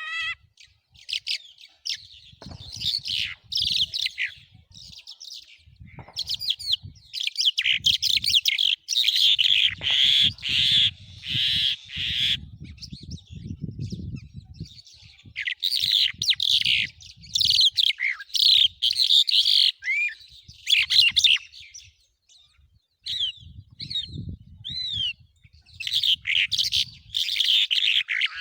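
Small birds chirping and singing in quick runs of high, sliding notes, in bursts with short pauses. Low rumbles come and go underneath.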